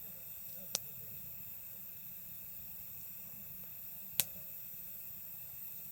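Wood fire crackling: two sharp pops, about a second in and again a little past four seconds, over a steady hiss. Night insects keep up a constant high chirring underneath.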